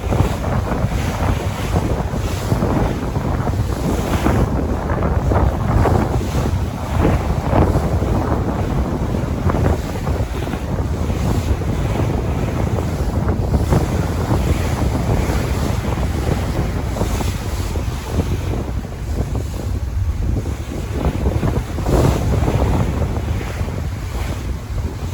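Sea waves surging and washing continuously, with strong wind buffeting the microphone and adding a low rumble.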